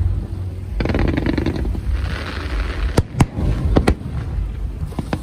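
Fireworks going off: a quick run of crackles about a second in, then sharp bangs in quick pairs around three seconds and near four seconds, over a steady low rumble.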